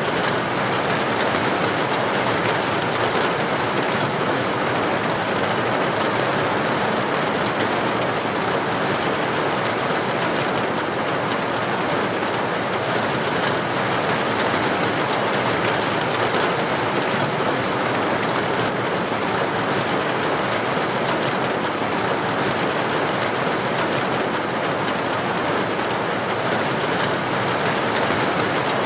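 Heavy rain falling on a street, a steady, even hiss with no let-up.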